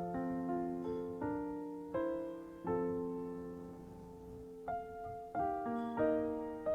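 Soft background piano music: slow chords and single notes, each struck and left to ring and fade.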